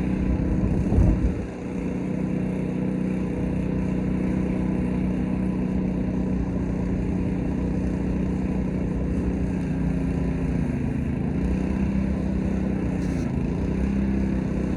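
Small gas engine of a pressure washer running steadily, with a loud thump about a second in. The engine note sags briefly twice near the end.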